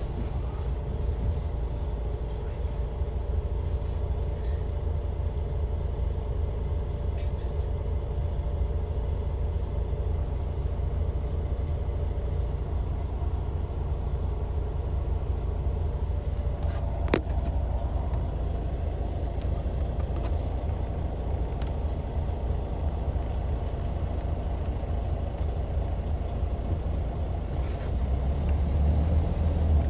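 Hyundai D6CC Powertec 380 straight-six diesel of a Universe Comfort coach running steadily with a deep rumble, growing louder near the end. A single sharp click about halfway through.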